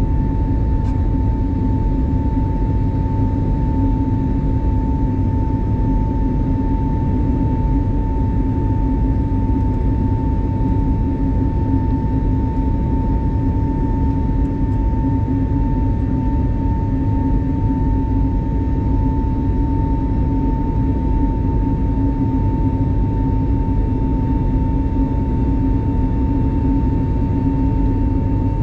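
Airbus A320neo cabin noise in flight: the steady drone of its CFM LEAP-1A engines and the airflow, with a constant high hum running through it.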